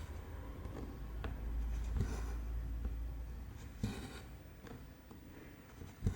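Needle and cotton thread being pulled through cross-stitch fabric: soft scratchy swishes with a few light clicks, over a low rumble in the middle.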